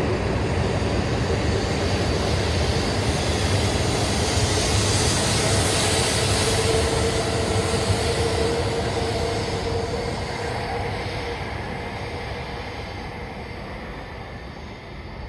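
Shinkansen train pulling away at speed: a steady rush of running noise with an electric motor whine that rises in pitch, then fading off over the last several seconds.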